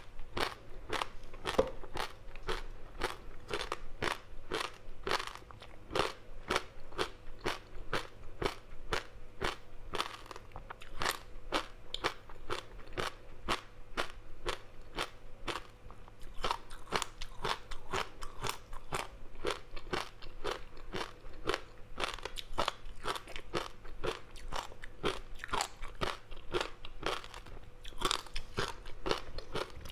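Close-miked chewing of a crispy seaweed-wrapped rice snack: a steady run of crunching and crackling, several sharp crunches a second as the dry seaweed coating breaks between the teeth.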